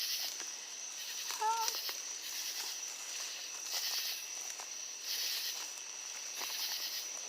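Insects chirping in a pulsing chorus, with a steady high-pitched drone and waves of shrill hiss every second or so. About a second and a half in comes a short, wavering, voice-like call.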